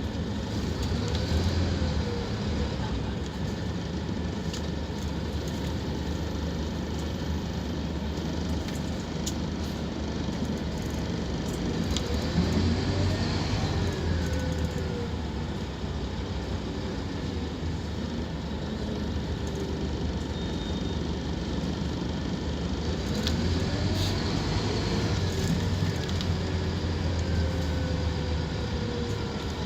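Scania K230UB bus's five-cylinder diesel engine pulling hard under full throttle, its pitch climbing and then dropping as the automatic gearbox changes up, three times over.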